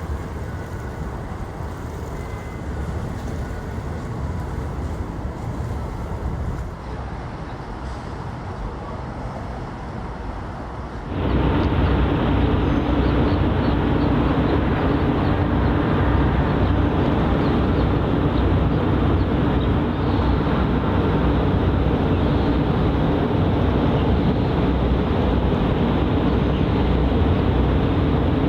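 Harbour ambience: a steady low rumble of vessel and waterfront noise. About eleven seconds in it cuts abruptly to a louder, steadier rumble with a faint low hum.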